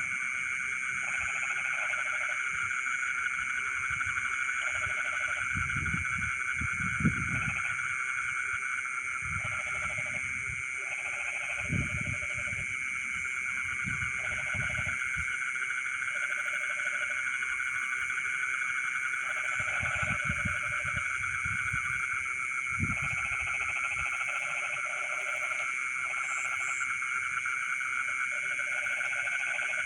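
Night chorus of frogs and insects in flooded rice paddies: a steady high trilling, with bouts of a lower frog call that start and stop every second or two. Several brief low sounds come and go through it.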